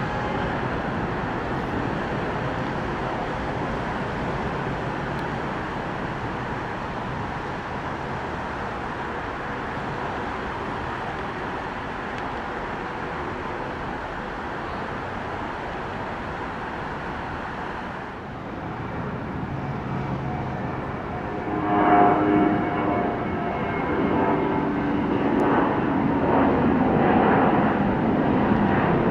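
Departing jet airliners' engines: a steady roar slowly easing off. About eighteen seconds in, a second jet's roar builds, louder and with whining engine tones.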